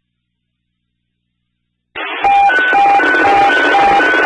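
Silence for about two seconds, then radio static opens and a hi-lo alert tone begins over the dispatch channel: a lower and a higher pitch alternating about four times a second. It is the kind of alert tone that a dispatcher sends before an announcement.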